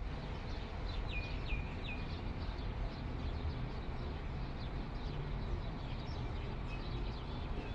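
Small birds chirping over a steady low outdoor rumble, with three clear down-slurred calls about a second in and scattered short chirps after.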